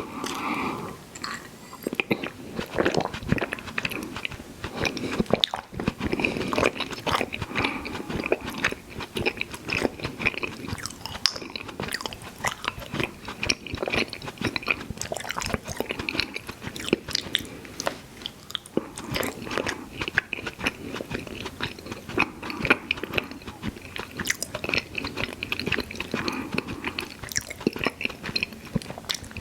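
Close-miked chewing and mouth smacking on chewy fruit candy, with many small wet clicks and sticky smacks in an irregular rhythm.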